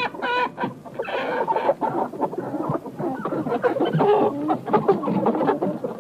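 A flock of chickens clucking: many short calls overlapping one another.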